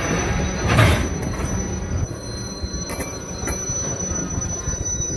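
Loaded tank cars of a freight train rolling past at a grade crossing, steel wheels rumbling on the rails. There is one louder clank about a second in and sharp clicks of wheels crossing rail joints about three seconds in.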